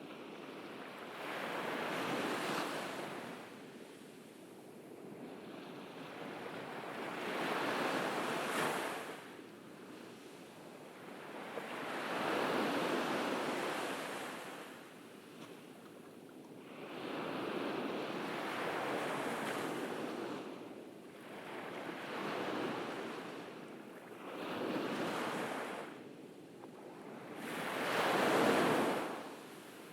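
Ocean surf on a beach: waves breaking and washing up the shore, swelling and ebbing about every four to five seconds, seven surges in all, the last near the end the loudest.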